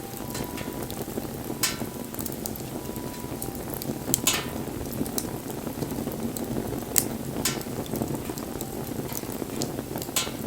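Wood bonfire burning: a steady low rush of flames with scattered sharp crackles and pops, the strongest a few seconds in and about two-thirds of the way through.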